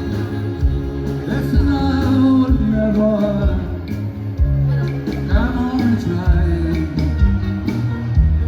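A live dance band playing, with drums and bass keeping a steady beat under a gliding melodic lead line.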